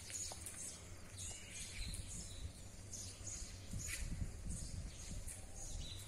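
Birds chirping: many short, high calls repeated throughout, over a low steady rumble.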